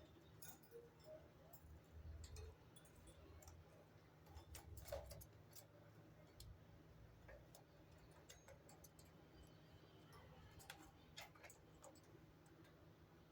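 Near silence with faint, irregular small clicks and ticks over a low steady hum.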